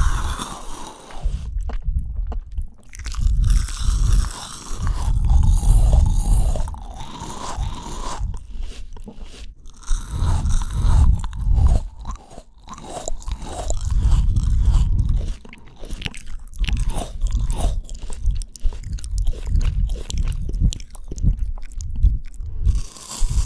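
Close-miked biting and crunchy chewing of fresh fruit, in loud stretches broken by short pauses.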